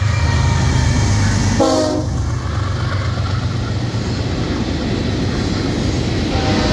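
Diesel freight train running past with a steady low rumble, and a short, sharp blast of the locomotive's multi-tone air horn about a second and a half in; horn-like tones sound again near the end. Wind noise on the microphone runs over it.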